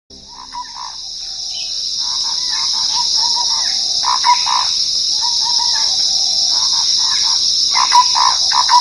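Nature ambience that fades in: a steady high-pitched insect chorus with birds calling repeatedly over it.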